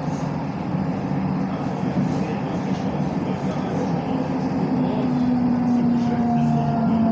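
Electric tram running along its line, heard from inside the car: steady rolling noise of wheels on rails with a whine from the traction motors, which drifts slightly lower in pitch in the second half.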